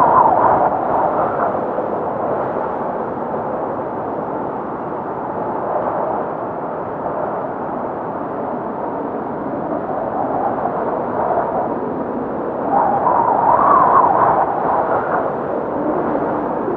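Blizzard wind blowing hard and steadily with a wavering howl. It swells into louder gusts at the start and again about 13 seconds in.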